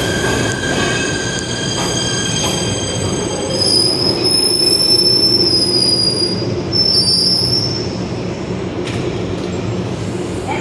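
PATH subway train running through the station, a steady rumble of the cars with steel wheels squealing high on the rails, the squeal loudest for a few seconds in the middle.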